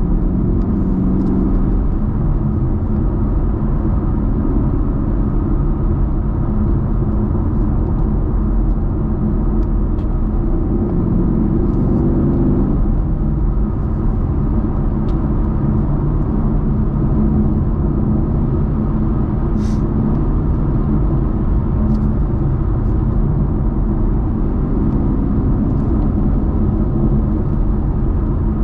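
Muscle car's engine running steadily at cruising speed with road noise, a continuous low rumble whose note changes slightly about twelve seconds in.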